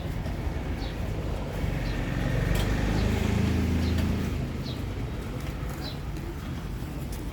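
Street ambience: a motor vehicle's engine passes close by, its hum swelling about two seconds in and fading after about four seconds, over a steady traffic rumble. Short high bird chirps repeat about once a second.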